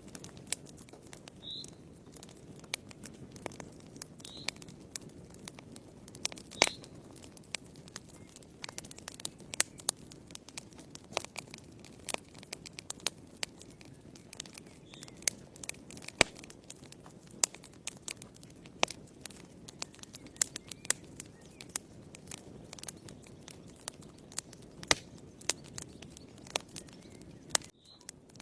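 Wood fire burning in a fireplace, crackling with sharp, irregular pops and snaps over a steady low rush of flame.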